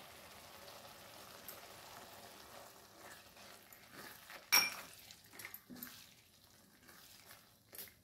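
Tomato puree frying with a faint sizzle in hot onion-masala paste in a kadhai, then a spatula scraping and knocking against the pan as it is stirred in, with one sharp knock about halfway through. The sizzle fades away towards the end.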